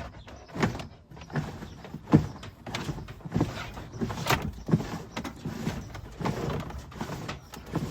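Electrical cable being pulled hand over hand through the van's body, rubbing and scraping in a series of uneven strokes, roughly one to two a second.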